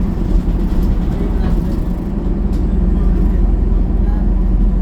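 Steady low rumble of a city bus running, engine and road noise heard from inside the passenger cabin, with a few faint clicks or rattles.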